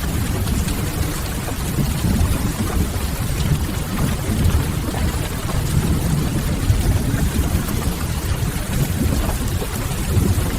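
Steady rain with a strong low rumble underneath, mixed with the soft crackle of a wood fire.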